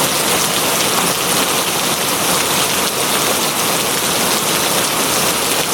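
Steady heavy rain falling on a surface, a dense even hiss of drops.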